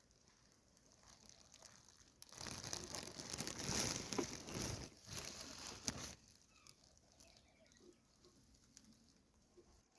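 Rustling and scratching with fine crackles, starting about two seconds in and lasting about four seconds.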